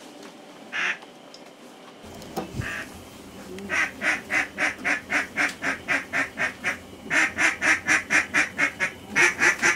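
Duck quacking in rapid, evenly spaced runs of about four quacks a second, three runs in a row, after a couple of single quacks.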